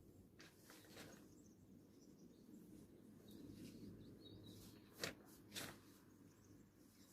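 Quiet outdoor background with faint bird chirps, broken about five seconds in by two short knocks about half a second apart.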